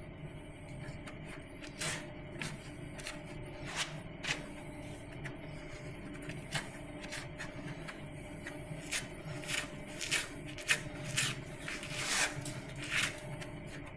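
Electric drill running steadily as it drills out spot welds in sheet-steel chassis metal, with irregular sharp clicks and scrapes as the bit catches, more frequent in the second half.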